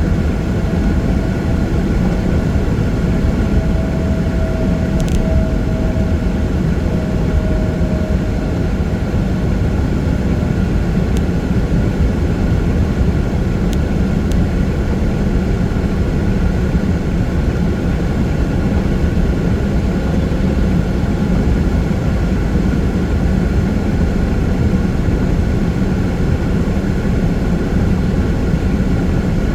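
Steady road noise of a vehicle driving on a rain-wet freeway: an even low rumble of tyres and engine. A faint held tone sounds in the first several seconds, and there are a couple of faint clicks.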